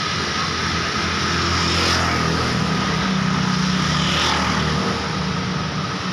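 Steady road traffic: vehicle engines running and tyres hissing as vehicles drive past, with two passes standing out about two seconds and four seconds in.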